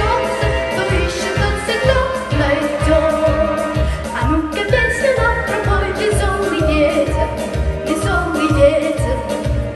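A young girl's solo voice singing a song in Russian over instrumental accompaniment with a steady beat.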